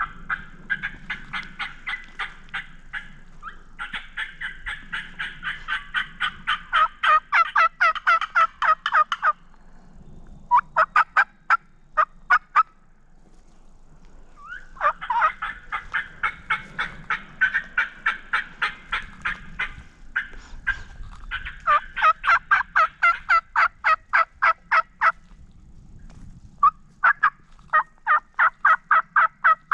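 Wild turkey yelping: several long, loud runs of fast yelps at about five a second, broken by short pauses.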